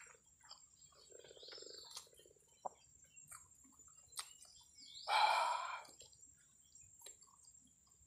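A man chewing a mouthful of rice and grilled catfish, with small wet mouth clicks and lip smacks. About five seconds in comes a louder noisy sound lasting about a second, and a thin steady high whine runs underneath.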